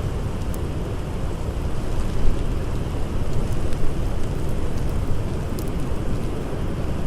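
Blizzard wind blowing steadily in a deep, rumbling rush, with a few faint crackles from a campfire.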